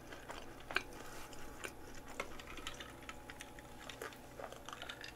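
Faint chewing of a deep-fried croquette: soft, irregular mouth clicks and squelches, with a sip from a glass of iced drink near the end.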